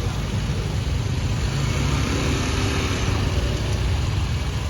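Motor vehicle engines running steadily in slow mountain-road traffic, a continuous low engine sound with road noise over it.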